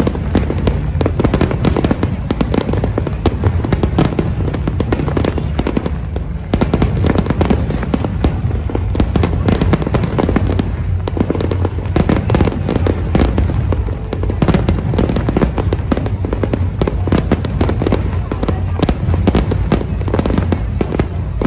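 Large fireworks display in a dense, continuous barrage: rapid overlapping bangs and crackles over a deep booming rumble, easing briefly twice before picking up again.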